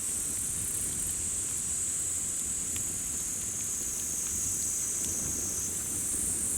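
Steady high-pitched chorus of summer insects, with sparse faint crackles from a wood campfire and a low rumble underneath.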